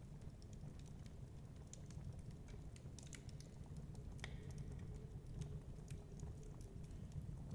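Wood fire crackling in a fireplace: irregular small pops and snaps, with a sharper pop about four seconds in, over a steady low rumble.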